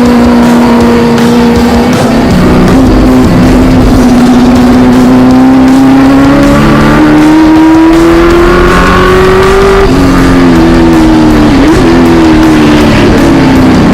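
Historic muscle car's racing V8 engine running hard on track. Its note holds steady, climbs slowly for several seconds, then drops sharply about ten seconds in and wavers after.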